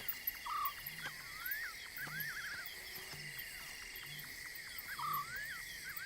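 Night-time savanna chorus: a steady drone of insects with repeated chirping, trilling and croaking calls of small night animals, several each second.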